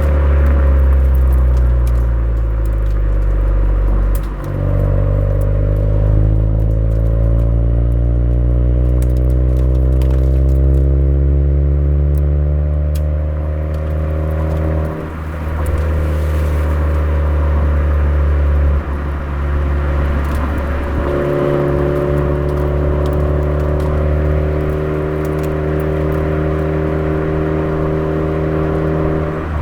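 Suzuki Swift Sport ZC33S's 1.4-litre turbocharged four-cylinder engine heard through its Fujitsubo aftermarket exhaust while being driven downhill. The engine note falls at first, breaks for a gear change about four seconds in, then climbs slowly for about ten seconds; further brief breaks for gear changes come around the middle, after which it holds a steady pitch.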